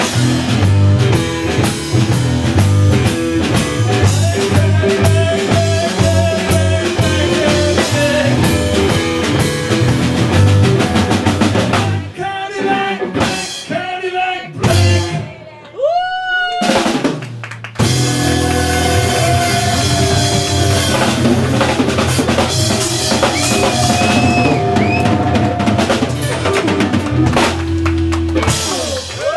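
Texas blues-rock trio playing live: electric guitar, bass and drum kit. About halfway through the band drops out to a break of scattered drum hits and a single bending guitar note, then comes back in full.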